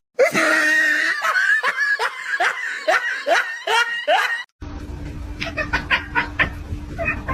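A person laughing hard in a run of about nine quick pulses, each falling in pitch. It breaks off about four and a half seconds in, giving way to scattered clicks over a steady low hum.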